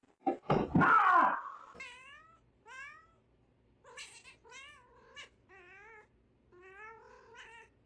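Cat yowling: a loud, harsh cry about a second in, then a run of shorter, quieter calls with a wavering pitch.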